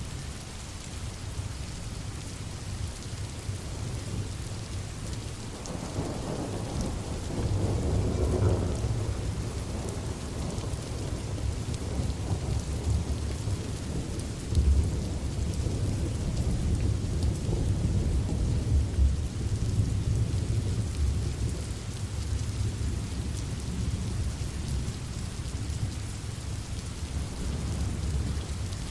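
Steady rain with low rolling thunder that builds about six seconds in and keeps rumbling, with a few louder swells.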